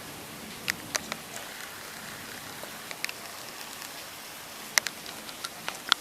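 Heavy rain falling, a steady hiss, with a few scattered sharp taps, about a second in and again near the end.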